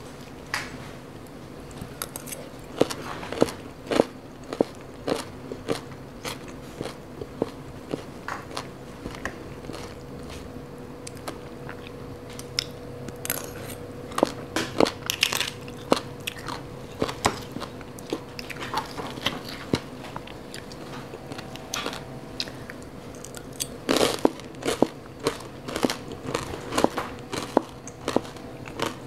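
A person eating shredded green papaya salad close to the microphone: crunchy bites and chewing in irregular crisp clicks, thickest about a second or two after the twenty-fourth second... over a faint steady hum.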